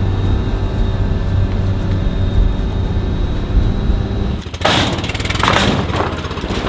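Steady low drone of a vehicle's engine and road noise while driving. About four and a half seconds in it gives way to a loud hissing noise lasting about a second and a half, then the drone carries on.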